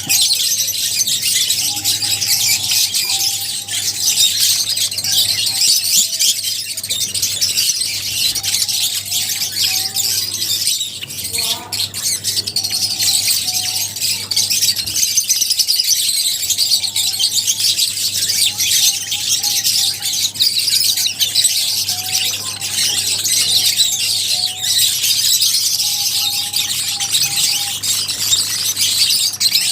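A colony of lovebirds chirping and squealing continuously, many shrill overlapping calls at once, with shorter lower whistled notes now and then.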